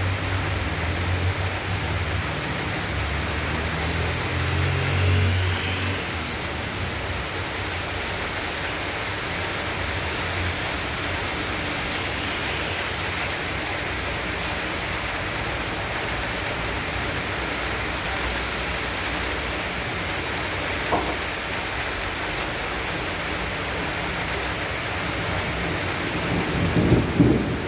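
Heavy tropical downpour: a steady, even hiss of rain. A low thunder rumble runs under it and dies away about six seconds in.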